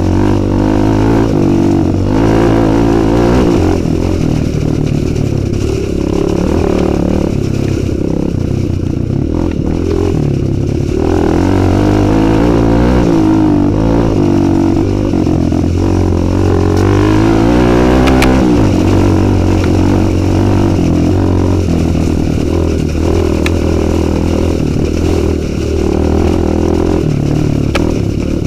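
Kawasaki KLX 150 G's single-cylinder four-stroke engine running under load on a rough dirt trail, the revs rising and falling again and again as the rider works the throttle.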